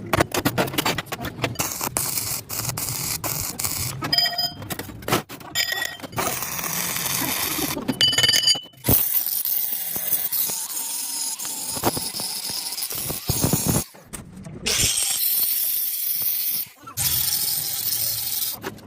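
Metal repair work on a steel sprocket: a run of sharp metal strikes, some of them ringing, then long stretches of steady high hissing noise from a power tool working the metal.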